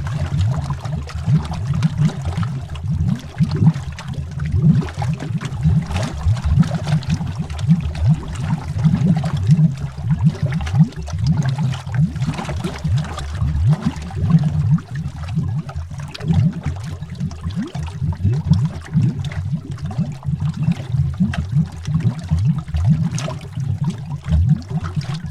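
Continuous underwater bubbling: a dense stream of low bubbles gurgling and popping, with the sound shifting constantly.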